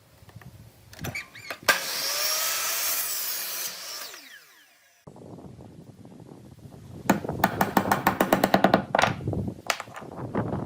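Workshop tool noise: a power tool runs for about two seconds and winds down with a falling pitch. After an abrupt cut, a fast run of clicks and knocks follows.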